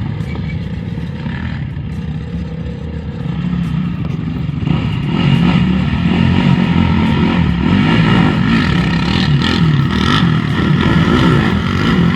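Kenworth T680 semi tractor's Cummins diesel engine running steadily, getting louder about five seconds in.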